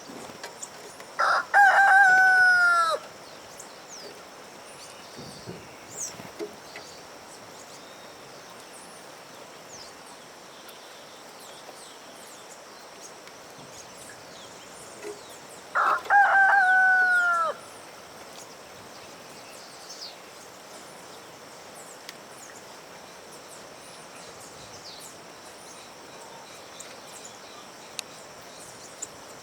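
Rooster crowing twice, about fourteen seconds apart, each crow under two seconds long and falling in pitch at the end.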